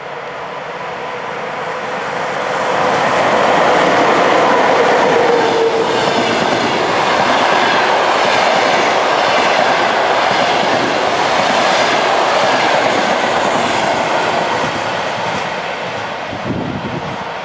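ChS7 electric locomotive and its passenger coaches passing at speed: a loud rolling rumble that swells over the first few seconds, a faint whine that drops in pitch as the locomotive goes by about five seconds in, then the steady clickety-clack of coach wheels over the rail joints. A short thump comes near the end.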